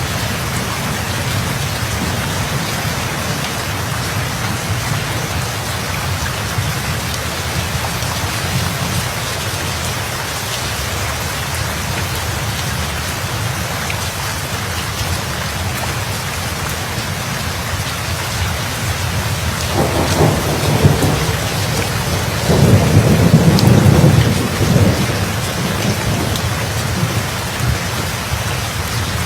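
Steady heavy rain falling, with a roll of thunder: a rumble starts about twenty seconds in and swells louder for a few seconds before dying back into the rain.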